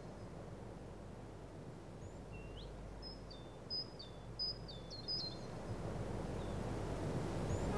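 Outdoor ambience: a steady hiss of background noise that slowly grows louder, with a bird giving a short series of high chirps, about five quick whistled notes each dropping in pitch, in the middle.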